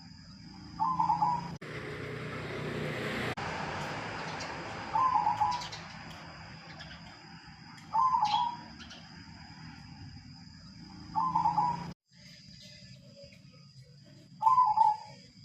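Zebra dove (perkutut, silver colour form) cooing: a short phrase repeated five times, about every three seconds.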